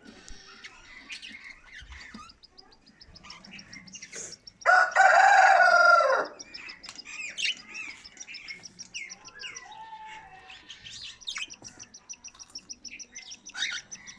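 Budgerigars chirping, with rapid runs of high, evenly repeated cheeps from chicks begging as the mother budgie feeds them. About five seconds in, a rooster crows once, loud, for about a second and a half, falling in pitch at the end.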